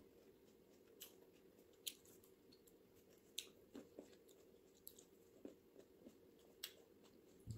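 Faint chewing of green grapes, with soft wet crunches and mouth clicks heard about eight times at irregular moments.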